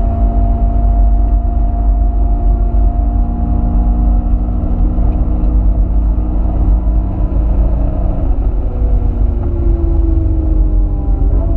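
Honda Civic EM1's B16A2 1.6-litre VTEC four-cylinder heard from inside the cabin, running hard at high revs with its pitch held steady or slowly climbing, changing about eight seconds in, over heavy road and wind rumble.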